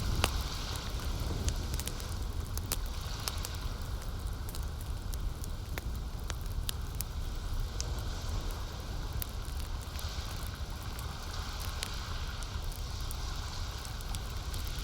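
Campfire burning with frequent sharp crackles and pops over a steady low rumble, with the lapping of lake water.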